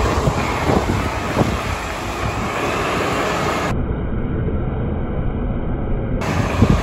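Wind buffeting the phone's microphone: a steady rumbling noise.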